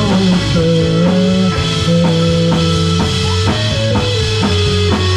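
Live rock band playing: drum kit, electric guitar and bass, with the end of a sung line about a second in.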